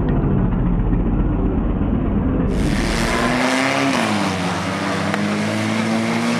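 Banger racing car engines running on the track. A dull, low rumble gives way after about two and a half seconds to a clearer engine note that drops and then slowly climbs as the cars lap.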